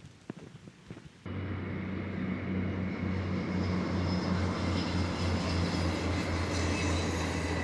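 Footsteps on a path, then about a second in a sudden switch to an engine running steadily, a loud low drone with a hum above it.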